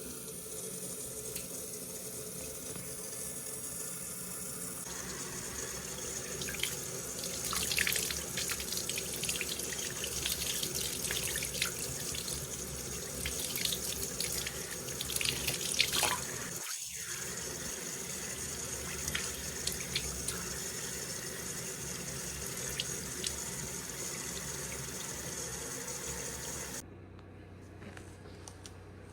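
Water running from a tap into a sink, a steady rush with irregular splashes. It stops about two seconds before the end, leaving a quieter low hum.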